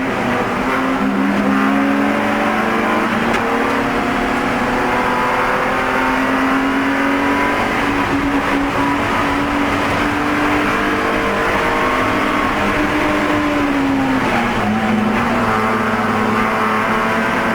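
BMW E46 race car's straight-six engine at racing speed, heard from inside the car: held at high revs, with a sudden drop in pitch about a second in and again near the end as it shifts up, the note climbing after each.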